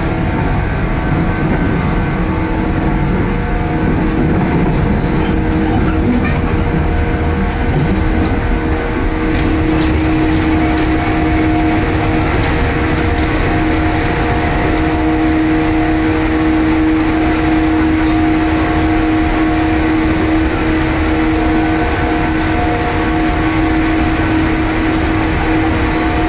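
Electric train heard from inside the carriage while running at speed: a steady rumble of wheels and running gear with held humming tones over it.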